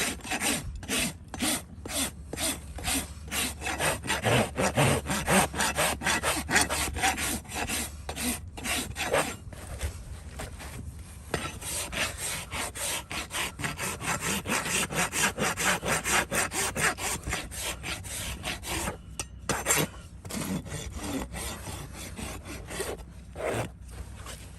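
A farrier's rasp filing a hoof in repeated rough back-and-forth strokes, about two to three a second, with a few brief pauses.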